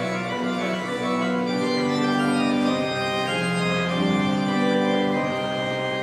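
Church organ playing slow, sustained chords, the music at the close of the service.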